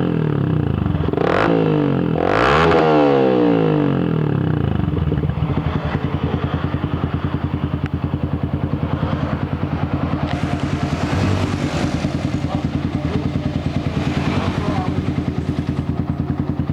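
Yamaha Vixion 150cc single-cylinder four-stroke engine through a CLD Racing aftermarket exhaust, blipped twice, revs rising and falling, then settling into a steady, pulsing idle about five seconds in.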